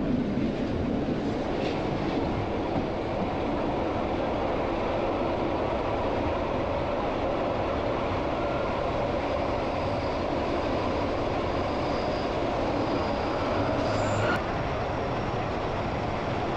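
Glacier Express train rolling along the track: a steady rush of wheels on rails and passing air, with a faint high whine in the second half and a short knock about two seconds before the end.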